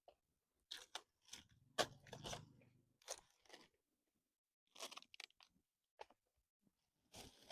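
Faint, irregular clicks, scrapes and crunching handling noises, with a brief denser patch about two seconds in.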